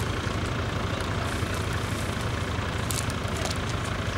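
Off-road 4x4 engine running steadily, with a few short clicks about three seconds in.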